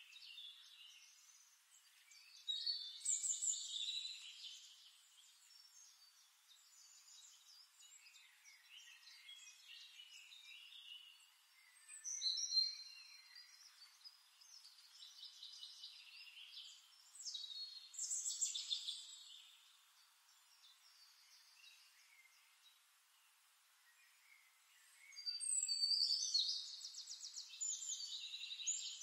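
Birds singing: chirps and trills coming in several louder bursts over a faint background of calls.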